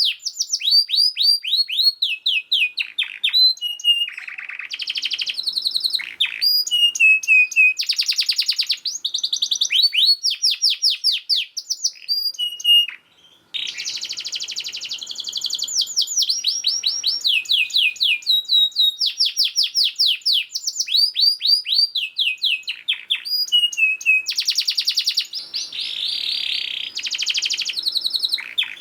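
Domestic canary singing a fast, dense song: rapid trills of repeated falling notes alternating with buzzier rolls, with a brief pause about thirteen seconds in.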